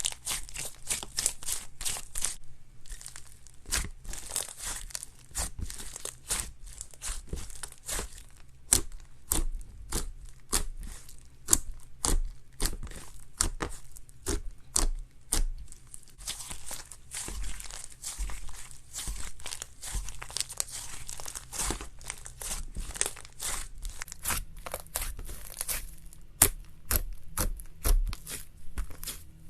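Slime being squeezed and worked by hand, giving a fast, irregular run of crackling clicks and pops.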